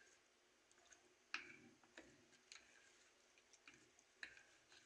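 Faint, irregular clicks and scrapes of a spoon against a bowl as raw chicken is mixed into a yogurt marinade, the loudest click about a second and a half in.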